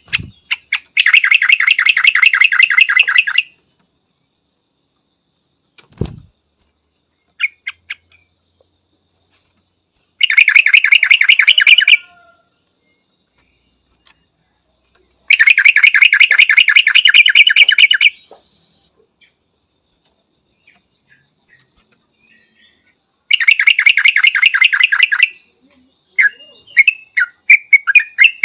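Yellow-vented bulbul calling: four rapid trilled phrases of two to three seconds each, separated by pauses of several seconds, then a run of short, varied chirps near the end. A single low thump about six seconds in.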